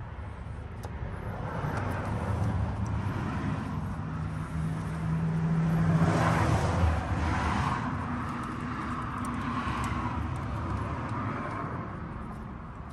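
A passing motor vehicle, its engine and road noise swelling to a peak about six seconds in and then fading away.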